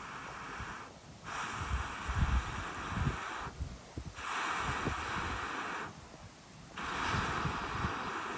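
Long puffs of air blown into a wood fire, four in a row, each about two seconds with a short pause between, as when fanning a campfire through a blow pipe. Faint crackles from the burning wood underneath.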